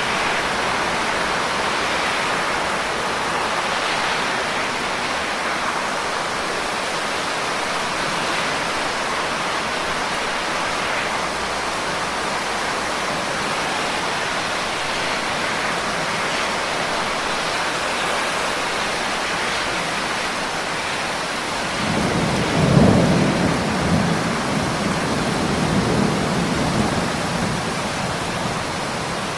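Steady rain hiss, with a low rumble of thunder that swells about two-thirds of the way through and dies away over a few seconds.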